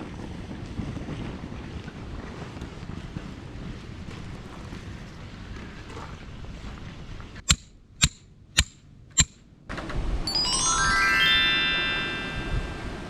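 Steady outdoor wind noise, then four sharp clicks about half a second apart, followed by a quick rising run of bright, chime-like tones.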